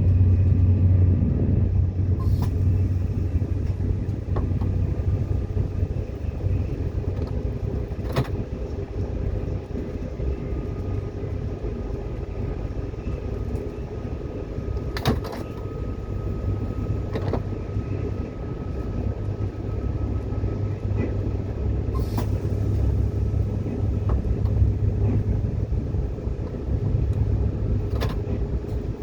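Moving train heard from inside the carriage: a steady low running rumble, with a few sharp clicks or knocks scattered through it.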